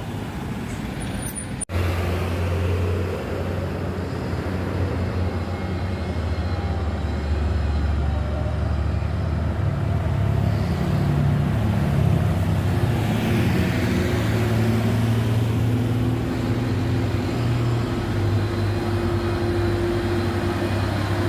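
Heavy diesel truck engines running in slow road traffic, the low engine note shifting up and down. A brief break in the sound comes about two seconds in.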